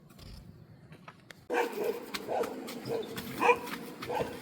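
An animal calling: a run of short, repeated high calls over a steady whine, starting suddenly about a second and a half in.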